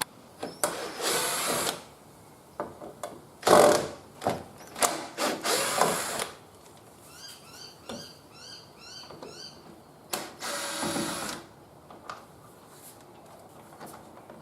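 Cordless drill-driver running in several short runs of about a second each, backing out door-trim screws, with clicks and knocks of handling between runs.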